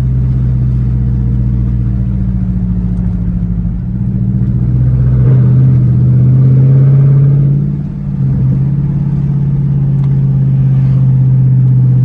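Straight-piped 6.4-litre 392 HEMI V8 of a 2012 Dodge Charger SRT8 droning steadily under way. About five seconds in it gets louder for a couple of seconds as the driver accelerates, then drops off sharply near eight seconds as he lifts off, and settles back to a steady drone.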